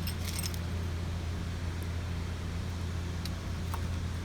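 A few light metallic clinks near the start, from small metal engine parts being handled, over a steady low hum. One more faint clink comes about three seconds in.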